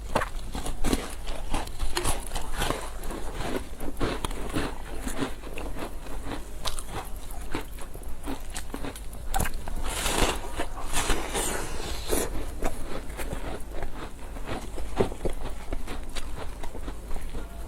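A person eating close to the microphone: biting and chewing food in a dense, continuous run of small crisp clicks.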